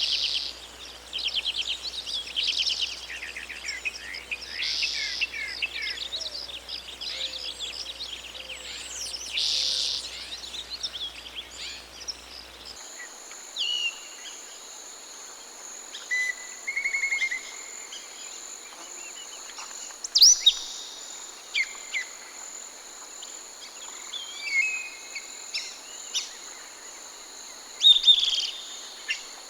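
Forest songbirds singing in a busy chorus of rapid trills and warbles. About thirteen seconds in, the chorus cuts off abruptly for a different recording: scattered single bird calls and sharp down-slurred whistles over a steady high-pitched hum of insects.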